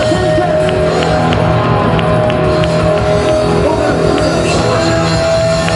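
Live rock band playing: electric guitar with held notes over drums, with a sharp tick about three times a second.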